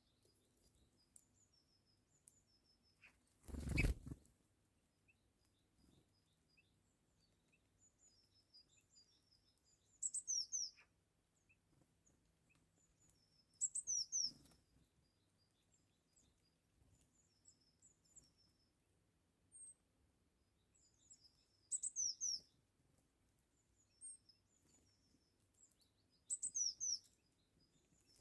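Birds chirping: faint high twittering throughout, broken every few seconds by short bursts of louder, high chirps that slide downward. About four seconds in there is one brief, loud rushing noise.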